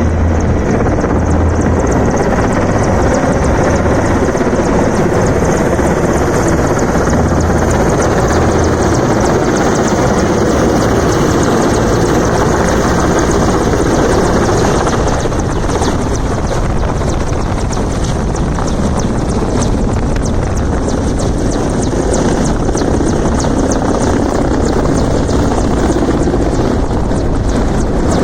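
Military helicopter's rotor and turbine engines running, loud and steady, with a low throbbing beat that eases after about nine seconds.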